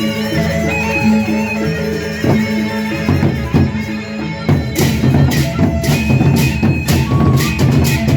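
Traditional Indonesian instrumental music, a tabuh opening piece: held melodic tones over a steady drone, with drums coming in about three seconds in and quickening into fast strokes.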